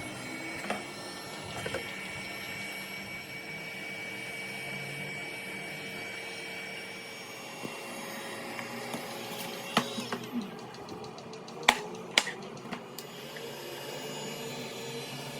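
Small electric motor of a handheld power tool running steadily with a whirr, with a few sharp clicks or taps near the end.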